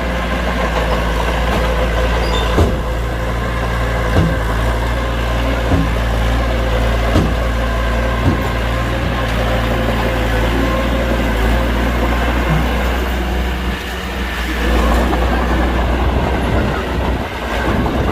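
Heavy diesel engine of construction machinery running steadily, with a few sharp knocks about every second and a half. The engine note drops briefly and then picks up again near the end.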